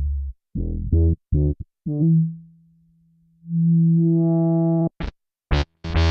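Bass guitar played through an MXR Bass Synth pedal, giving a synthesizer bass tone. Several short notes cut off abruptly, a held note fades away, then after a brief gap a long note's tone brightens as it sounds, and near the end come sharper, brighter stabs.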